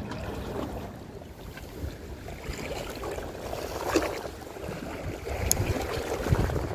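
Wind buffeting the microphone over a low, steady rumble of sea noise, with a few faint knocks or clicks.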